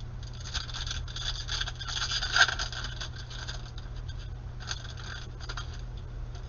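Trading cards being flipped and slid against one another in the hands: a quick run of light scrapes and clicks with one sharper snap about two and a half seconds in, then a shorter run about five seconds in.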